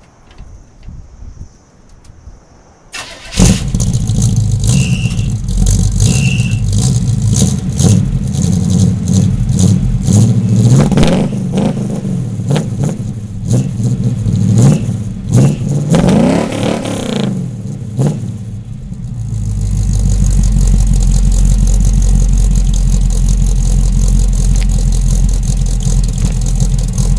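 A 1976 Chevrolet pickup's 350 V8, with headers, dual exhaust and a Holley four-barrel carburetor, starts about three seconds in and is revved up and down several times. It then settles into a steady loud idle for the last several seconds.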